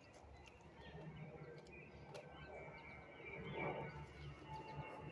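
Faint outdoor ambience with scattered short bird chirps over a low steady rumble.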